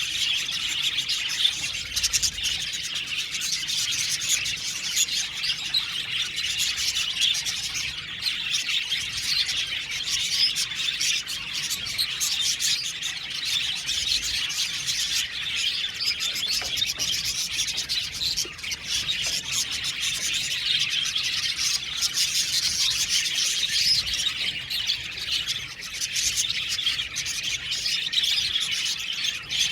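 A colony of budgerigars chirping and warbling together, a dense, continuous chatter of many birds at once.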